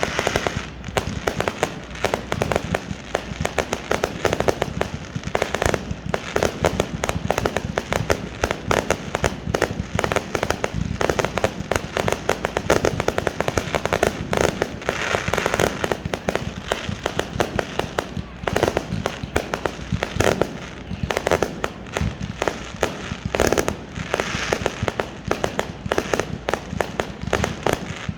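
Fireworks display with shells bursting in quick succession: a dense, unbroken run of bangs.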